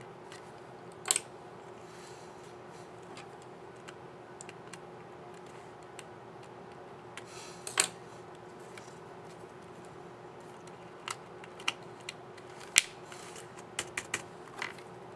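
Dell XPS 9360 laptop keyboard keys clicking as they are pressed, scattered single clicks and short runs with pauses between them, more frequent near the end.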